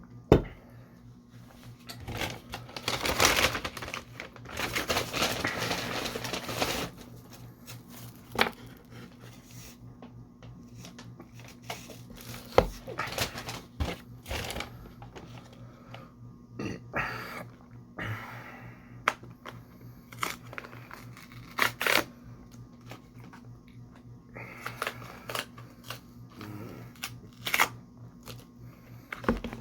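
Close-miked eating sounds: wet mouth clicks and chewing, with a louder stretch of crinkling and crunching lasting a few seconds near the start, over a faint steady hum.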